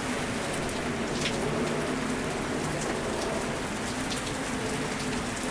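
Steady cockpit noise of a Boeing 737 climbing out just after rotation: an even hiss of airflow and engines with a faint low steady hum beneath.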